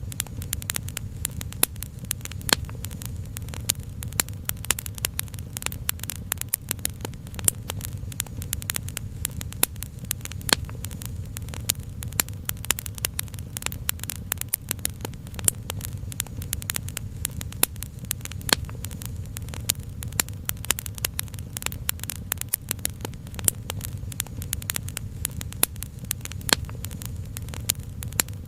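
Wood fire crackling: a dense, irregular stream of small pops and snaps over a steady low rumble.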